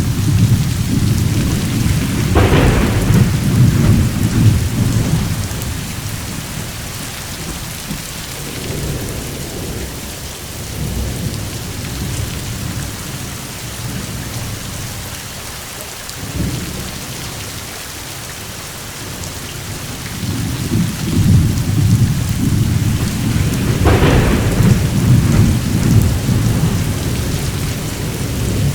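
Steady rain with rolling thunder: deep rumbles swell and fade, loudest at the start and again in the last third, with a sharp crack about two seconds in and another near the end.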